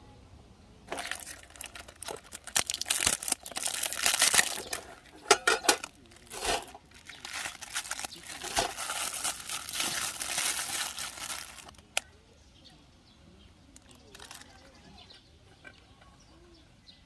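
Crinkly material, such as plastic or nylon camping gear packaging, being handled and crumpled in irregular rustling bursts for about eleven seconds, then one sharp click.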